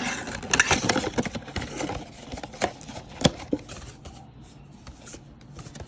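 Cardboard trading-card box being torn open by hand: scraping, tearing and rustling for about the first two seconds, then a couple of sharp clicks and quieter handling of the packaging.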